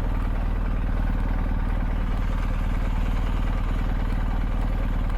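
BMW R1250GS Adventure's boxer twin engine running at steady low revs, with an even, unchanging pitch.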